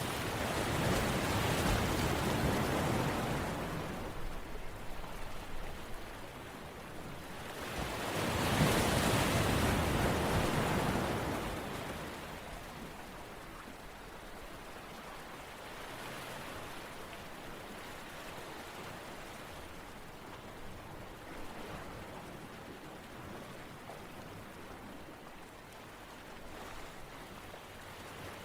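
Rushing water noise that swells up and falls back twice in the first half, then settles to a steadier, softer wash.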